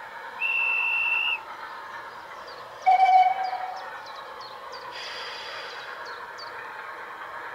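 Garden railway model locomotive's sound unit whistling twice: a short high whistle about half a second in, then a louder, lower whistle near three seconds, over the steady running noise of the train. A bird chirps repeatedly in the middle.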